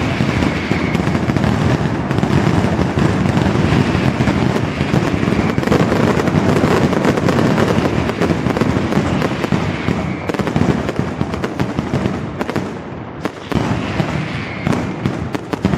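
Mascletà firecrackers: a dense, continuous barrage of loud bangs in rapid succession, thinning briefly about thirteen seconds in before sharp cracks resume.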